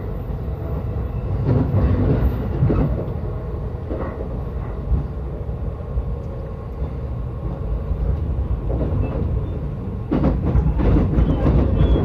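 Yokosuka Line commuter train heard from inside the carriage: a steady low rumble of the running train with wheel-on-rail clatter. It gets louder and busier for a stretch about two seconds in and again near the end.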